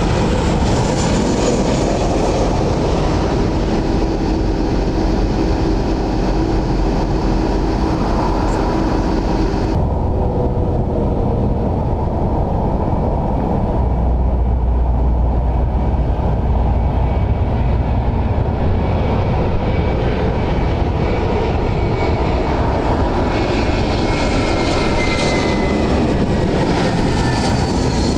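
Jet airliner engines on short final approach, a loud steady roar; near the end a high engine whine grows in and falls in pitch as the aircraft passes.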